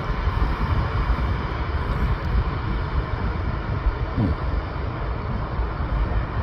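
Departing Airbus A320 airliner's jet engines at takeoff power: a steady, deep rumble with a broad rushing hiss.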